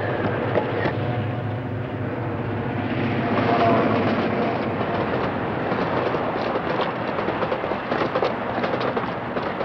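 A train running past on the tracks: a steady rumble with many small clicks.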